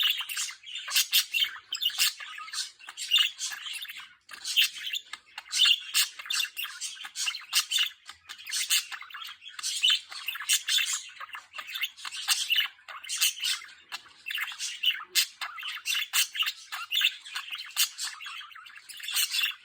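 Budgerigar singing: a continuous, rapid warbling chatter of short chirps, clicks and squawks.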